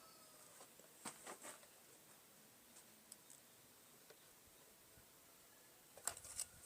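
Near silence, broken by a few faint clicks: a short run about a second in and a sharper cluster near the end.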